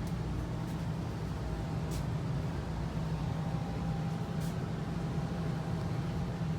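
Steady low mechanical hum of a running engine or motor, with a couple of faint ticks.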